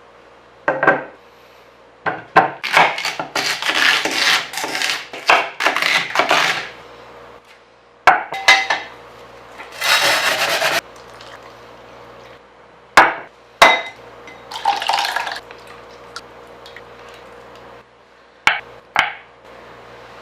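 Kitchen preparation sounds: irregular knocks, clinks and scrapes of utensils and dishes on hard surfaces, in busy clusters with single sharp clicks in between.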